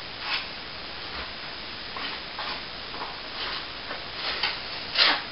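Plastering hand tools being handled: a series of short scrapes and clicks at irregular intervals, the loudest one near the end.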